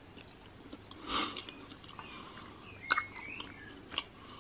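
Chewing a mouthful of fried chicken: soft, close-up mouth sounds with a few sharp wet clicks, the loudest about three seconds in.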